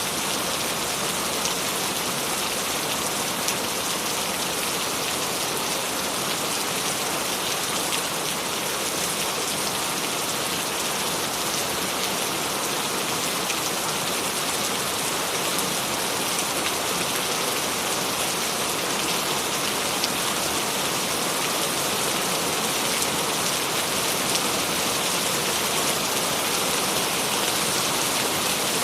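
Steady rain falling, an even hiss of many drops on a surface with scattered small patters, no change in strength.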